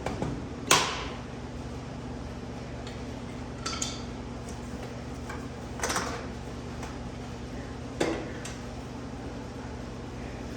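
Sharp metal-on-metal clanks and knocks, about five spaced a few seconds apart, the first, about a second in, the loudest, over a steady low hum.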